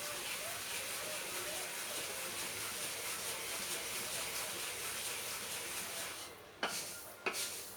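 Steady hiss of paddy and corn kernels dry-roasting in a hot pan, with two sharp clicks near the end.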